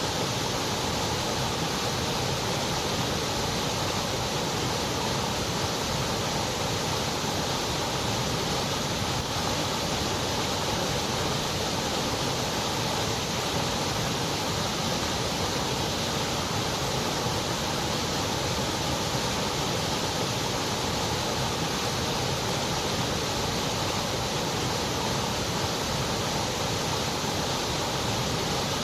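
Continuous white noise: an even, steady hiss that does not change, with no other sounds.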